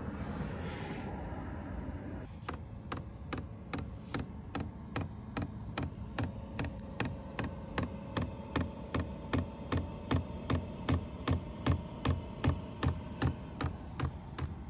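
Diesel air heater starting up: its fuel dosing pump clicks steadily at about three clicks a second, growing louder, over the hum of the blower fan, whose tone creeps slowly upward in pitch.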